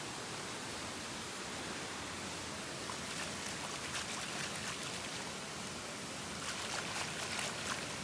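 Steady rushing of a waterfall. Clusters of short, sharp splashing ticks come on about three seconds in and again near the end.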